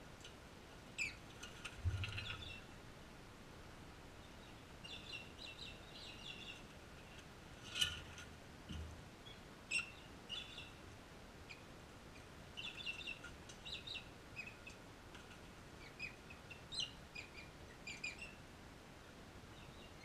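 Birds chirping: short, high chirps in scattered clusters, with a couple of soft low thumps.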